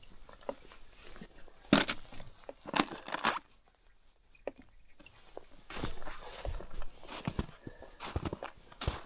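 Two short rustling scrapes, a brief pause, then footsteps with rustling on dry ground.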